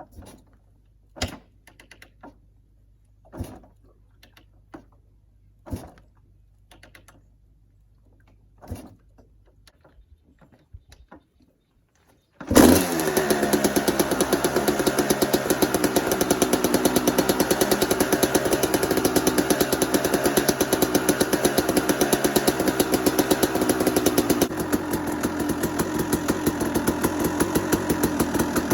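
A few scattered knocks, then about twelve seconds in, a Kawasaki KX250 dirt bike engine fires up on a cold start and runs steadily with rapid, even firing. It drops slightly in level near the end.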